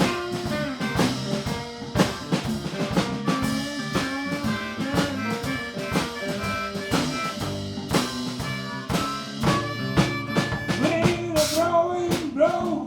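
Live blues band playing an instrumental passage: a drum kit keeps a steady beat under sustained instrument parts, and a lead line with notes bending up and down comes in near the end.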